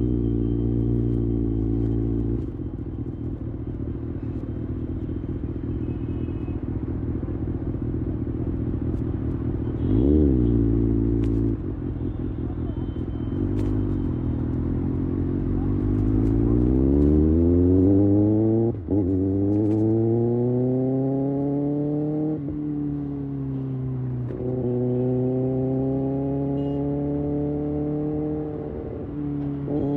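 Kawasaki Ninja ZX6R's inline-four engine idling, with one quick throttle blip about a third of the way in. It then revs up as the bike pulls away and shifts up through the gears, each shift a sudden drop in pitch, before settling to a steady cruise.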